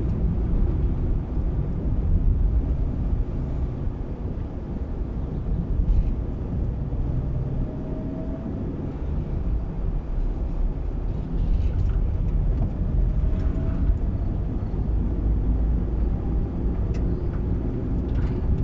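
Car driving on a road: a steady low rumble of engine and tyre noise, with the engine note rising faintly a couple of times.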